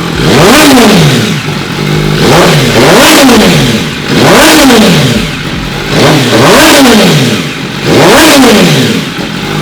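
MV Agusta Brutale 1000RR's inline four-cylinder engine, breathing through a custom titanium Orion exhaust with its silencer insert still fitted, blipped five times from idle. Each blip rises sharply and falls back to idle, about every one and a half to two seconds.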